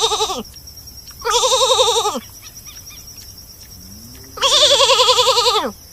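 An animal bleating three times, each call wavering and dropping in pitch at its end. The first call is already under way at the start, and the last is the longest.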